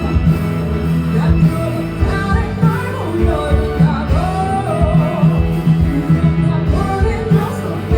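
Live rock band performing a song, with a sung vocal line over guitar and a steady drum beat.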